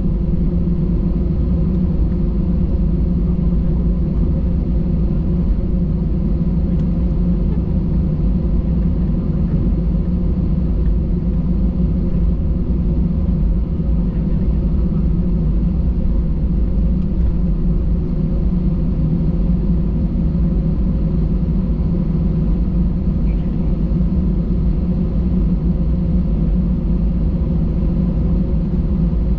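Steady cabin noise inside an Airbus A320: a loud low rumble of the engines and airflow with a few faint steady tones above it, unchanging throughout.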